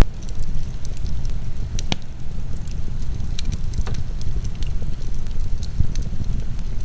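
Wood fire crackling with scattered sharp pops, one louder about two seconds in, over the steady low rumble of heavy rain.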